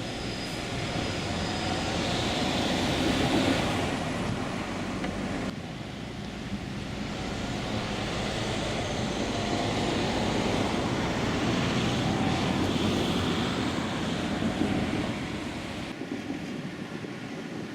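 Motorcycle on the move: steady wind and road noise with the engine underneath, cutting abruptly to a new take twice.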